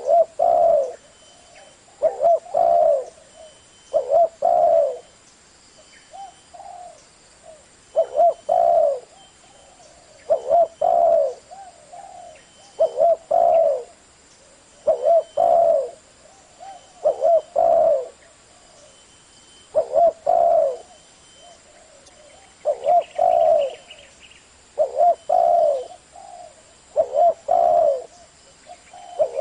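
Spotted dove cooing: a low phrase of several notes, repeated roughly every two seconds. It is the low 'thổ' voice used as a lure call to stir wild doves to answer.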